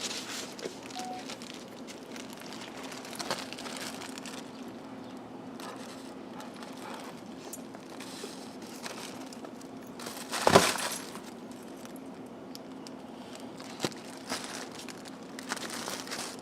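Plastic bubble wrap crinkling and crackling in scattered bursts as a puppy plays with it, with one loud sharp pop about ten seconds in.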